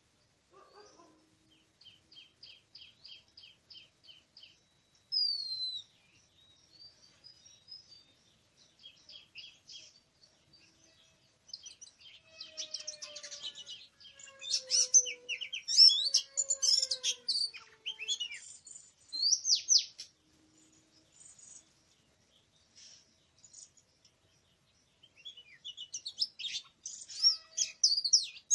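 Oriental magpie-robin singing: varied loud whistled phrases and quick trills. A quieter series of rapid repeated notes comes first, the song is loudest around the middle, pauses, and starts again near the end.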